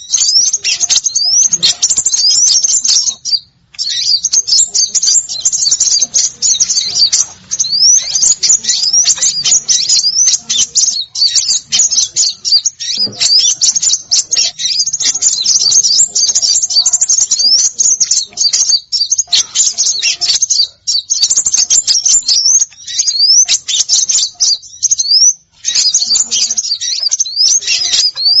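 Small songbirds chattering excitedly in a dense, nearly unbroken stream of quick high-pitched chirps and short rising whistles, pausing briefly twice. A bird-lure recording of agitated small birds, used to draw wild birds in.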